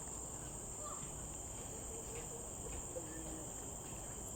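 Steady insect chorus from the forest: a continuous high-pitched shrill whine that holds at one pitch without a break.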